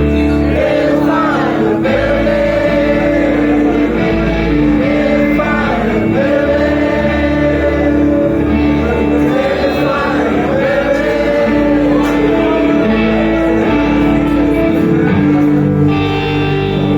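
Live rock band playing, with a male lead singer holding long sung notes over guitar and bass chords.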